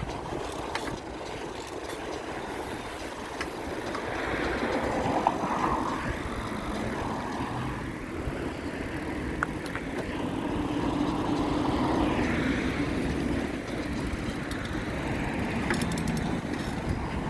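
Road traffic: vehicles going past, each one swelling and fading over a few seconds, over a steady low rumble.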